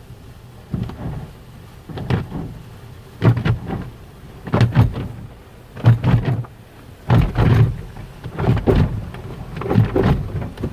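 Belanger tunnel car wash working over a car, heard from inside the cabin: swishing, drumming surges of water and wash equipment across the body, recurring roughly once every second and a bit.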